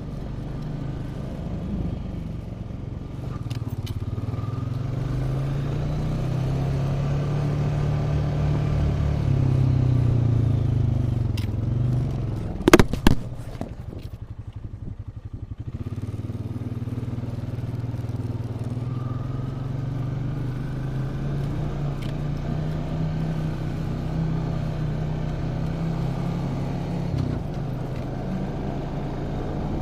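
A motor vehicle's engine and road noise while driving, the engine drone rising and falling in pitch. About halfway through come a few sharp knocks, then a brief quieter stretch before the engine picks up again.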